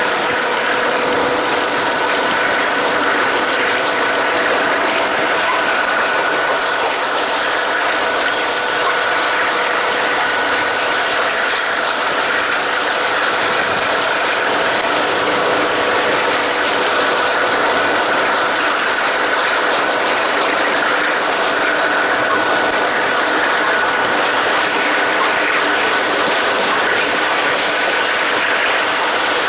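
Heritage train running along the track, heard from an open carriage window: a steady rush of wheel-on-rail noise and wind, with a thin high whine coming and going in the first half.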